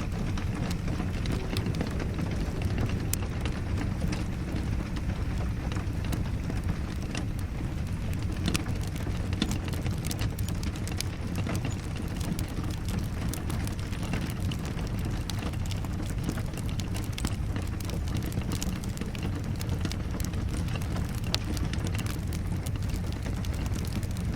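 Wood fire crackling in a fireplace, with scattered sharp pops, over a steady low rumble of rain.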